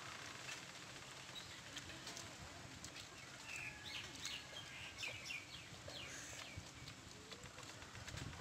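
Quiet outdoor background with a run of short, falling chirps from birds in the middle.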